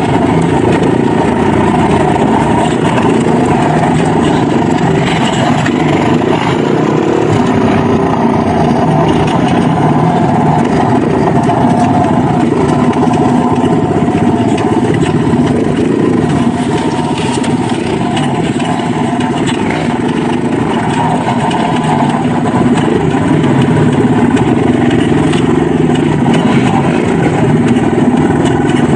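Dirt bike engine running continuously while ridden, its pitch shifting a little with the throttle.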